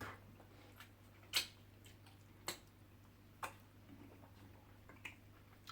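Faint, irregular mouth clicks and smacks of someone chewing and eating soft food, about seven sharp clicks spaced roughly half a second to a second apart, the loudest about a second and a half in.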